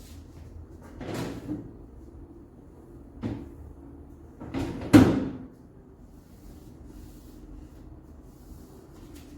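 Refrigerator fittings being handled and shut: three separate knocks and bumps, with the loudest, a solid thud, about five seconds in.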